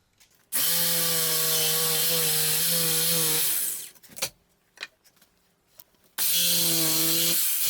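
Handheld electric saw cutting, run twice for about three seconds each with a short pause of a few clicks between. The motor holds a steady pitch under the rasp of the blade.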